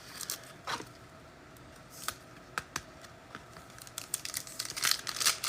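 Football trading cards and their packs being handled: scattered soft clicks and slides of cards, with crinkling of wrapper packaging getting busier near the end.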